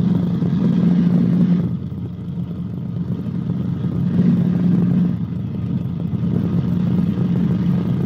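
Cabri G2 helicopter in flight: steady low drone of its piston engine and rotor, heard inside the cockpit through the headset intercom. It eases slightly about two seconds in and again around five seconds.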